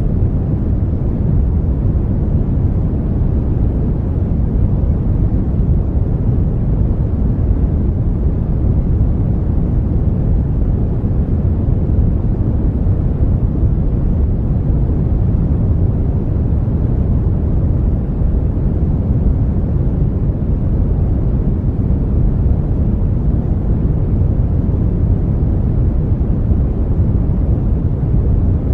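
Steady synthetic brown noise: an even, deep rushing hiss, strongest in the low end and fading toward the highs, with no change in level.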